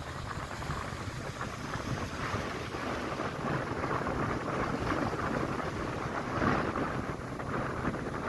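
Steady rushing noise of wind and water under a low rumble, the kind heard aboard a ferry at sea.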